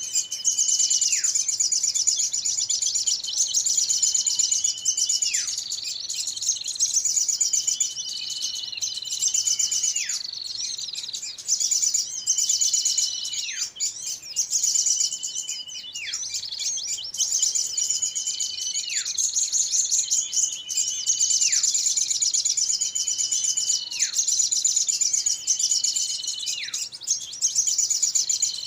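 Bird-lure recording of small birds calling in a noisy commotion: a dense, continuous high chatter of chirps, over which a whistle holds a steady pitch and then drops sharply, repeating every two to three seconds. It is a lure call meant to draw small birds in.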